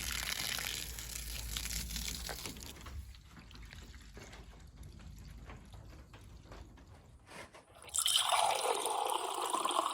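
Water pouring and trickling, with a quieter dripping stretch in the middle, then a stronger stream starting suddenly about eight seconds in.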